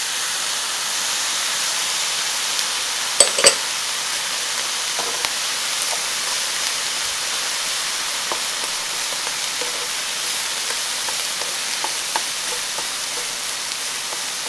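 Rice, shrimp and sausage sizzling steadily in a hot nonstick wok as soy sauce goes into the pan, while a spatula stirs and scrapes the fried rice. Two sharp knocks of the spatula against the pan come about three seconds in, with lighter taps now and then.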